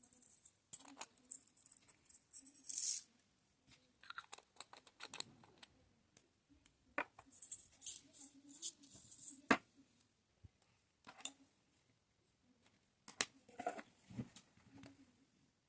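Tiny plastic diamond-painting drills rattling in a sorting tray in two spells, with scattered sharp clicks and taps of the applicator pen and drills against the tray and canvas.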